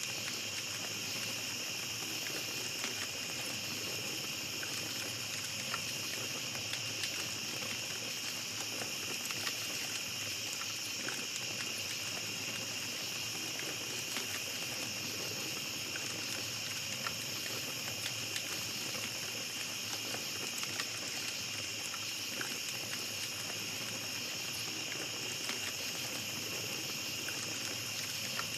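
Small campfire crackling with scattered soft pops, over a steady high chorus of night insects.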